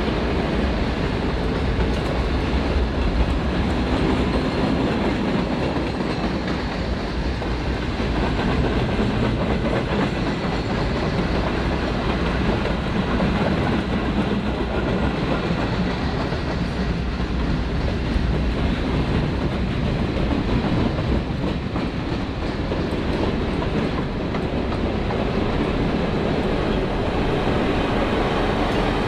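Freight train wagons rolling past at speed, their wheels clattering over the rail joints in a steady rumble. Near the end a pair of EMD diesel locomotives mid-train comes past.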